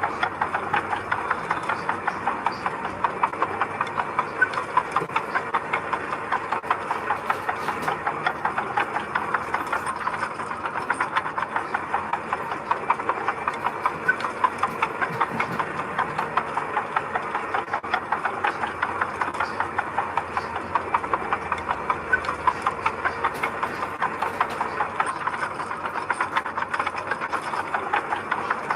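Diesel engine of a heavy machine, a bulldozer or dump truck, running steadily with a rhythmic clatter.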